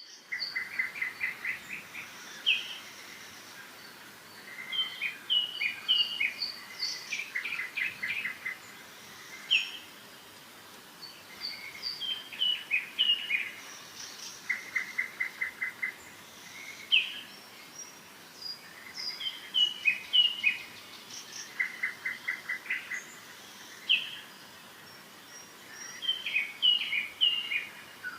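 Songbirds singing: a rapid trill of even notes that recurs every several seconds, among many short separate chirps, over a steady faint hiss.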